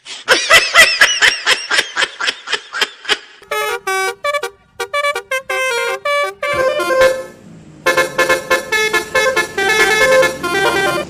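Telolet bus horn playing short tunes, several tones sounding together and stepping from note to note, from about three and a half seconds in. Before that comes a rapid run of high, warbling pitched sounds.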